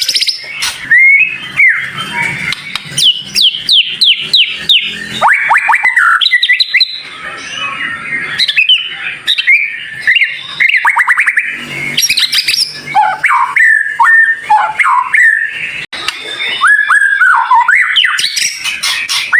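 Songbird song played as masteran audio to get white-rumped shamas singing: a dense, varied run of sharp, high-pitched whistled phrases, with quick trills of rapidly falling notes.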